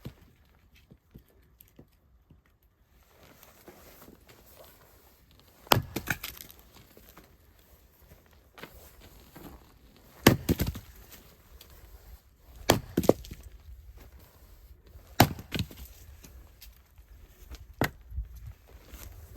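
Firewood being split with an axe: five sharp strikes on wood, roughly two and a half seconds apart.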